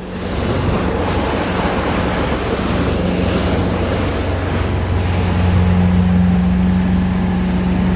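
31 ft Wellcraft cabin cruiser under way in choppy water: a steady low engine hum under the rush of wind and water against the hull. The sound swells a little in the first second.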